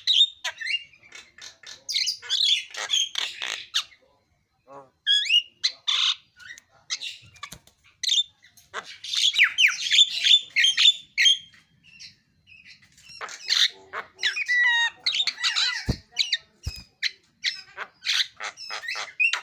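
Javan myna (jalak kebo) calling in a fast, chattering run of harsh squawks, rattles and short whistles, coming in bursts with brief pauses about four seconds and twelve seconds in.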